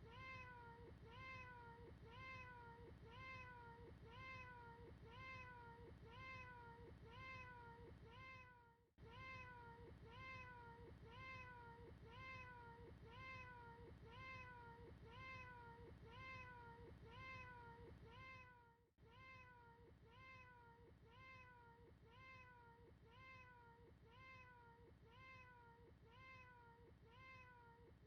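A cat's short meow-like call repeated over and over in a fast loop, about two calls a second, with brief breaks about nine and nineteen seconds in where the recording restarts.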